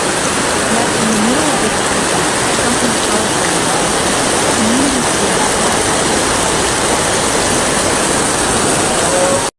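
Loud, steady rush of water, from floodwater or heavy rain, with faint voices calling now and then.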